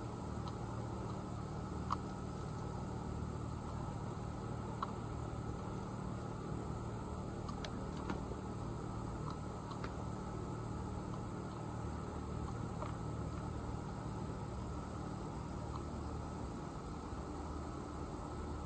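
Insects trilling steadily: one unbroken, high-pitched shrill at a constant pitch, with a low hum underneath and a few faint sharp ticks.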